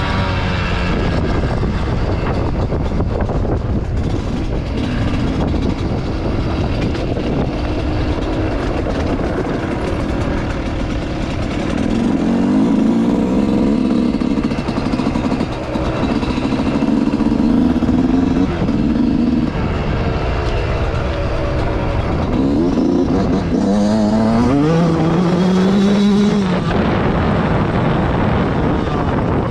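Motocross bike engine on track, revving up and dropping back again and again as the rider shifts and works the throttle through the lap, with a few long rising pulls near the end.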